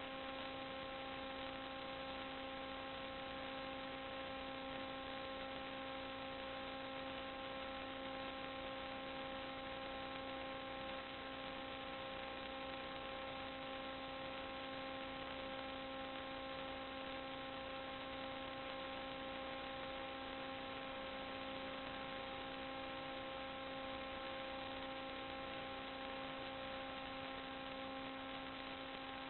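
Steady electrical hum with hiss: an unchanging whine with evenly spaced overtones over a constant noise floor, with no other events.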